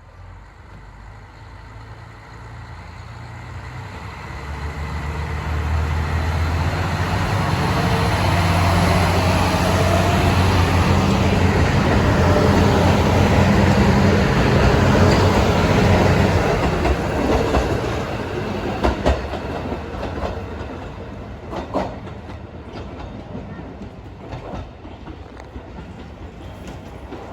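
Diesel railcar pulling out. Its engine note builds to a peak over the first several seconds, then fades as the train draws away, with wheels clicking over the rail joints near the end.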